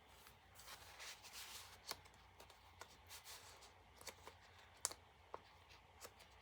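Faint rustling of paper and card as a handmade journal's pages, flaps and tags are handled, with a few light clicks and taps.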